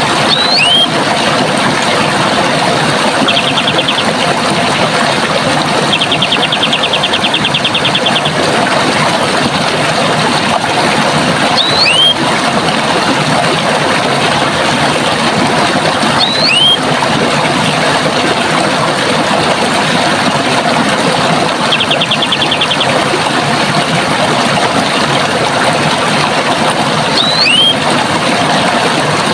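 Steady rush of running water, with a bird giving a short whistled call four times, spaced several seconds apart, and a rapid high trill twice.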